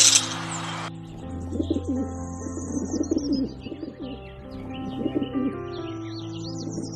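Bird calls over steady background music: two bouts of low, wavering calls with high chirps above them.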